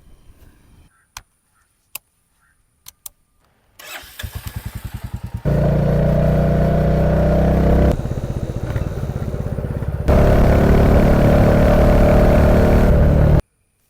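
A few sharp clicks, then the Royal Enfield Classic 350's single-cylinder engine starts about four seconds in, firing in uneven pulses before settling into a loud steady run. It drops to a quieter idle for about two seconds, runs louder again, and cuts off abruptly near the end.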